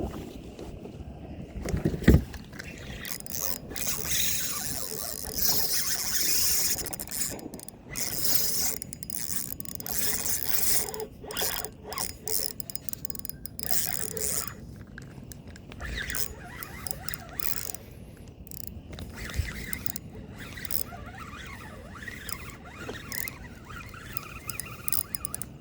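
Fishing reel being wound in stop-start stretches, scraping and clicking, with a sharp knock about two seconds in.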